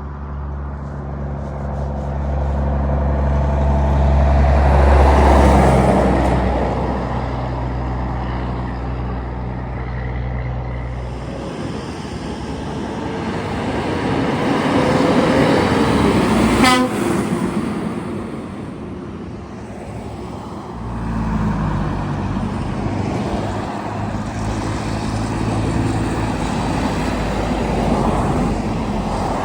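Heavy trucks driving past one after another, their diesel engines running. One goes by about halfway through with a pitch that falls as it passes, and another engine comes in strongly about two-thirds of the way through.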